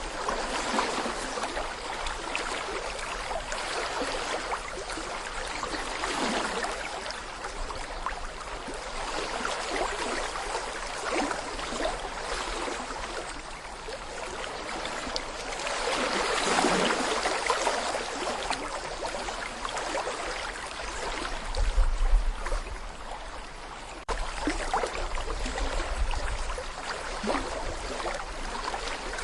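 Babbling brook: clear water flowing and gurgling over stones in a continuous rushing wash that swells and eases every few seconds. A brief low rumble comes about two-thirds of the way through.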